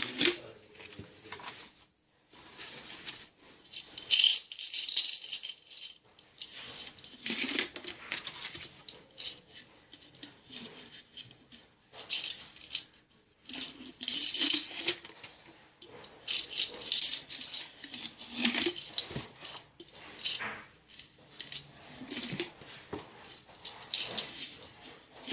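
Paper banknotes being handled and counted, with irregular crisp rustling and flicking of the bills.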